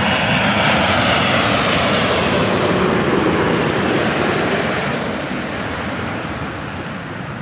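Airbus A380 airliner's four jet engines passing by on final approach to landing: a loud, steady rushing jet noise that peaks a couple of seconds in, then slowly fades as the aircraft moves away.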